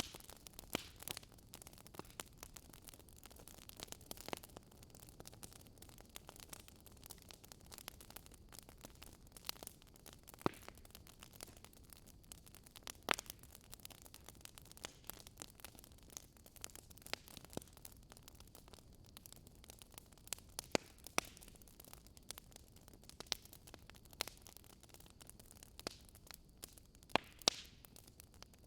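Wood fire burning in a fireplace, crackling with irregular sharp snaps and pops over a faint low rumble.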